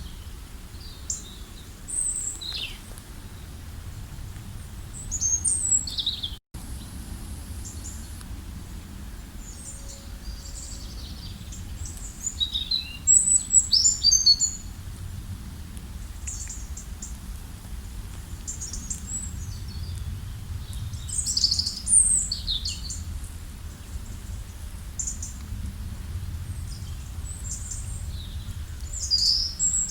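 Several small birds chirping and trilling in short high calls, busiest about halfway through, over a steady low rumble. The sound cuts out completely for an instant about six seconds in.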